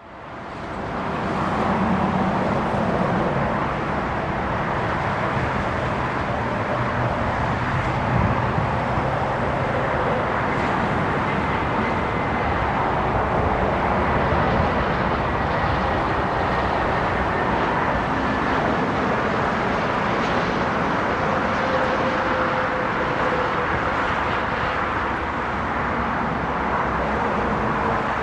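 Jet aircraft engines running as a steady, loud noise, with faint whines that slowly fall in pitch as the aircraft passes; the sound fades in over the first second or two.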